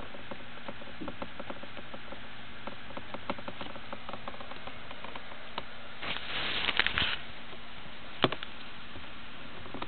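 Small pet moving about: light clicks and scratching, a short rustling burst about six seconds in and a sharp tap a little after eight seconds.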